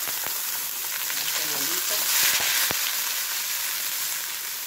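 Chopped onion sizzling steadily in hot oil in a frying pan, the start of a sofrito, with a brief swell a little past two seconds in and a few light clicks as it is stirred with a wooden spatula.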